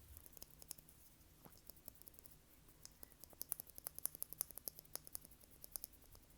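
Quiet, rapid light clicks and taps made close to the microphone, scattered at first and then coming thick and fast for a couple of seconds before thinning out near the end.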